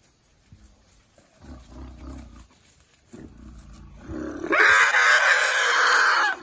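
Elephant trumpeting loudly for about two seconds, starting about four and a half seconds in and cutting off suddenly. It follows low rumbling sounds.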